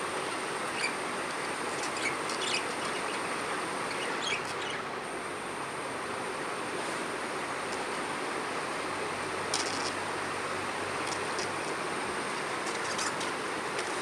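Budgerigars giving short, scattered chirps over a steady rushing background noise.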